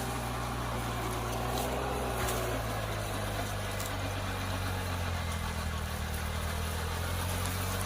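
Mini tractor's engine running steadily, a low even drone with a faint higher whine in the first couple of seconds.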